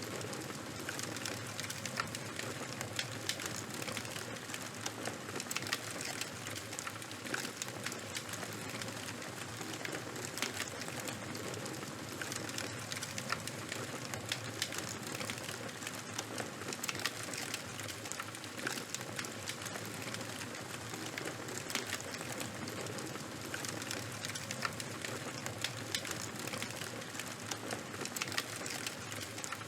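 Charcoal and bonfire burning, crackling steadily: many small, irregular pops and snaps over a continuous soft hiss.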